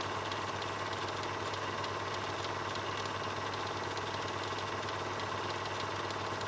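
Film projector running: a steady motor hum with a fast, even mechanical clatter.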